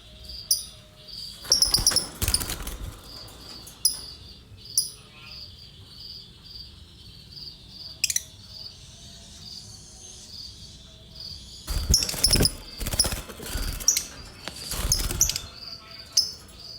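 Lovebird chirping when disturbed: a run of short high chirps about two a second, with sharper louder calls. Loud rough stretches of noise come around two seconds in and again for several seconds near the end.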